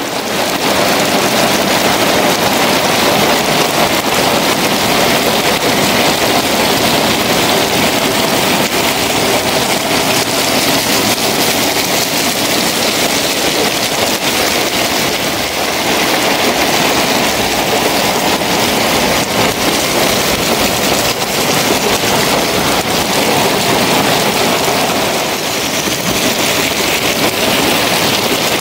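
Heavy rain falling steadily on wet concrete and puddles, a loud, even hiss.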